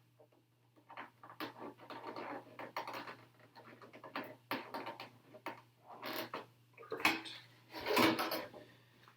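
Hands handling a plastic RC truck body shell and sticker sheet: scattered rustles, light taps and clicks, with a sharp knock about seven seconds in and a louder rustle about a second later.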